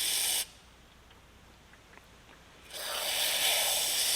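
Pressurised spray hissing into the passages of a small-engine carburetor to clean them out: a burst that cuts off about half a second in, then a longer burst starting near the three-second mark.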